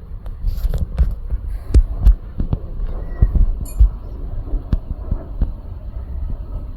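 Irregular low thumps and scattered clicks of a handheld phone being handled while tracking a plane, rumbling against its microphone.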